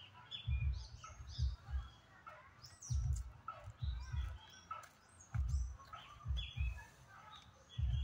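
Several birds chirping, with many short calls overlapping, over dull low thumps that come in pairs about once a second and are louder than the birds.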